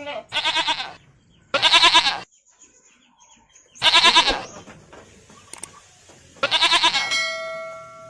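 Goat bleating four times, each call short and quavering, about one to two seconds apart. A clear bell-like ringing tone follows the last bleat and fades out near the end.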